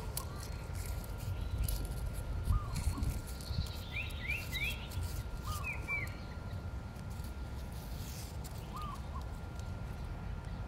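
Birds chirping: a short, arching chirp repeating every few seconds, a quick run of three higher chirps about four seconds in and two more about six seconds in, over a steady low rumble.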